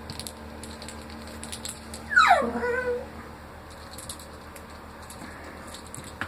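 A cat meowing once, a single call falling in pitch, about two seconds in, with faint light clicks now and then.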